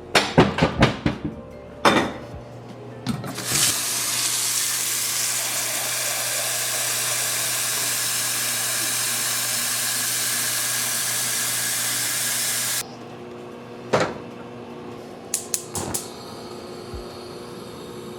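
Kitchen tap running steadily for about nine seconds, then shut off suddenly, after a few clinks of dishes at the start. A couple of light knocks follow.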